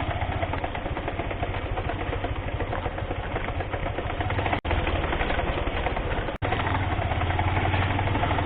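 Honda Hornet 160R's single-cylinder engine running steadily while riding a rough hill road. The sound cuts out completely for an instant twice, in the middle and about two-thirds of the way through.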